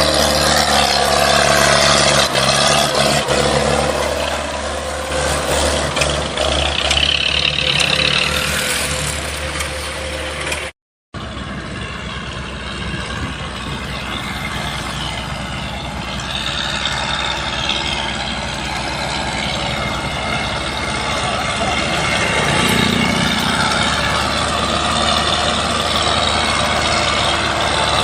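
An engine running steadily at a low, even pitch, the sound cutting out completely for a moment about eleven seconds in before running on.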